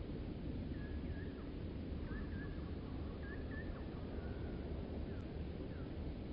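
Faint bird calls: a loose series of short high notes, a few sliding down in pitch, over a steady low outdoor rumble.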